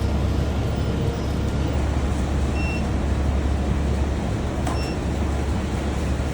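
Steady low machine hum from an induction gold melting furnace set-up, with a couple of short high electronic beeps, one a little under halfway and one about three quarters of the way through.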